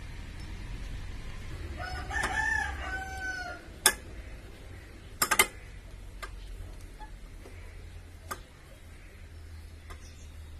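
A rooster crows once, a call of about a second and a half that rises and falls, starting about two seconds in. Sharp clicks follow: one, then a quick pair about a second and a half later, then a fainter one.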